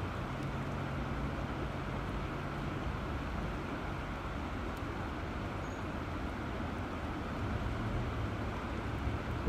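River water rushing steadily, a continuous even flow.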